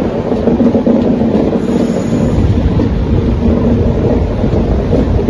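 Moving LHB passenger coaches running on the rails, heard from the coach doorway: a steady rumble of wheels and running gear with a low hum.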